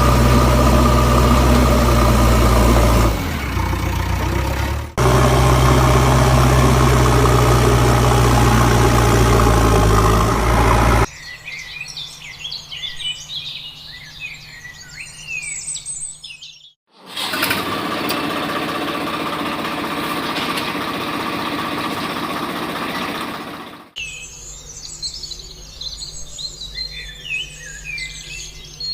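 A small electric motor on a DIY model tractor runs steadily with a loud hum, dipping a few seconds in and cutting off after about eleven seconds. Birds chirp next, a steady hissing whir then runs for about six seconds, and the birds chirp again.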